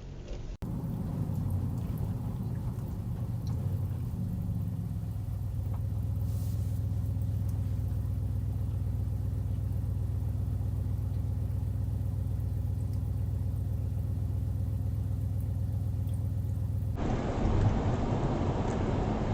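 Steady low drone of a car's engine and road noise, as picked up by a dashcam inside the vehicle. The sound changes abruptly about half a second in and again near the end, where it becomes a rougher, louder rumble.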